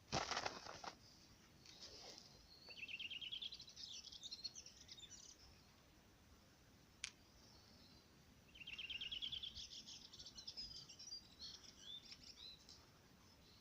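A songbird singing twice, about six seconds apart: each phrase opens with a fast trill of repeated notes and runs on into a few seconds of high twittering. A brief rustle right at the start and a single sharp click about seven seconds in.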